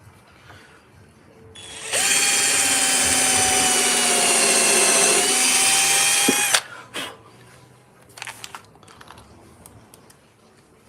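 Electric drill running for about four and a half seconds while fastening pieces of a wooden birdhouse, its pitch sagging slightly under load partway through before it stops. A brief second burst follows, then a few light clicks.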